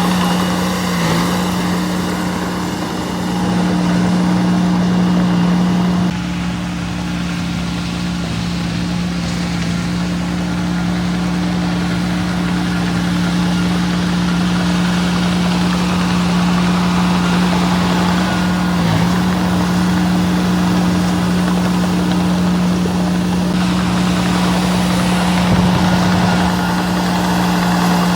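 Diesel engine of earthmoving machinery running steadily with an even hum; the sound changes slightly about six seconds in.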